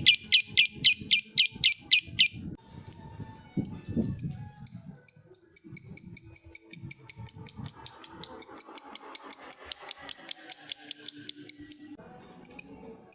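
A lovebird's long 'ngekek' chatter: fast trains of shrill repeated notes, several a second. The first run breaks off about two seconds in and comes back in short bits, then runs unbroken for several seconds and stops briefly near the end.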